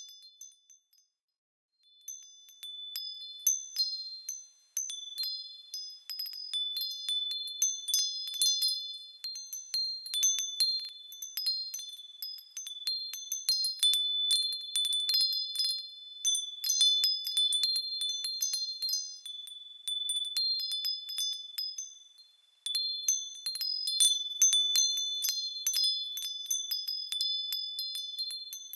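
Small metal bells swinging and ringing, a loose, irregular jangle of high tinkling strikes that overlap and ring on. Silent for the first two seconds, then ringing continuously apart from a brief lull about three-quarters of the way through.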